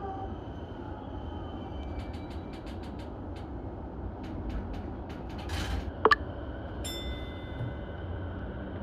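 Electric commuter train heard from on board while running: a steady low rumble with faint high whines, a run of sharp clicks about two seconds in, a short hiss, and one loud sharp clack about six seconds in.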